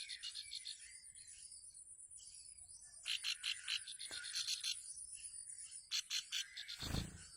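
A ciblek (prinia) giving rapid chattering alarm trills in several bursts, the calls of a parent bird agitated near its nest. A steady high insect whine runs underneath, and there is a single low thump near the end.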